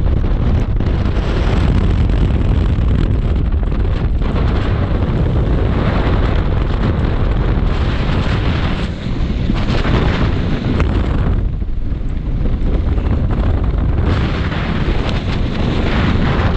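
Wind buffeting the microphone: a loud, steady low rumble of gusts that eases briefly twice, about nine and twelve seconds in.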